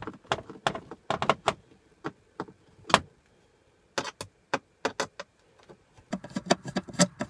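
Irregular clicks and knocks of small objects being handled, coming closer together near the end.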